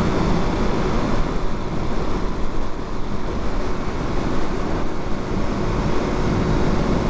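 Steady wind rush and the drone of a Suzuki DR-Z400's single-cylinder engine, heard from the rider while moving at road speed.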